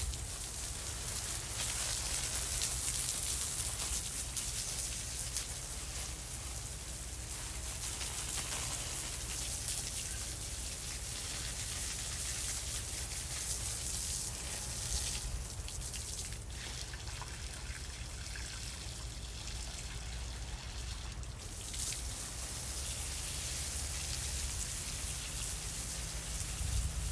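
Water spraying from a garden hose onto plants, a steady splashing spray.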